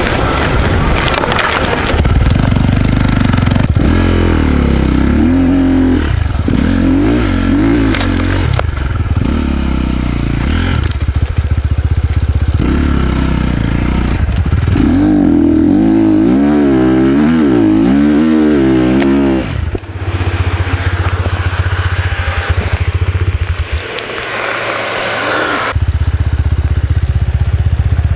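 Dirt bike engine running and revving, its pitch rising and falling over and over, with rough crunching noise underneath; it eases off briefly twice in the second half.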